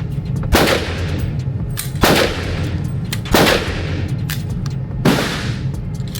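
Four handgun shots, irregularly spaced about one to two seconds apart, each with a short echoing tail. Fainter pops from other shots sound between them.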